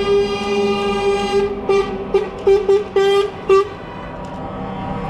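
Truck air horn sounding: one long blast, then a string of about six short toots in quick succession.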